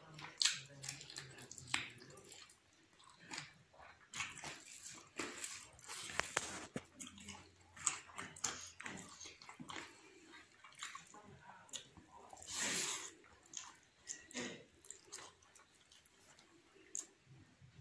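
Close-up wet chewing and lip-smacking of a man eating rice and chicken curry by hand, with many irregular clicks and squelches. A couple of longer wet noises come about six seconds in and again near thirteen seconds.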